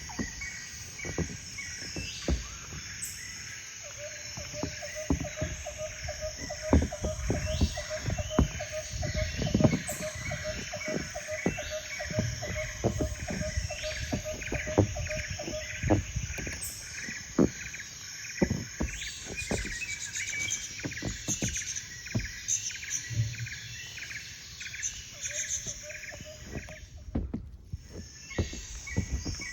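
Birds chirping in quick, repeated calls, with scattered low thumps underneath. A faint steady hum runs for about twelve seconds, starting about four seconds in.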